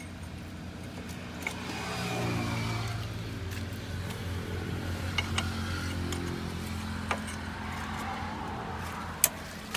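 Tractor engine running, its pitch rising about two seconds in and then holding steady, with a few sharp clicks over it.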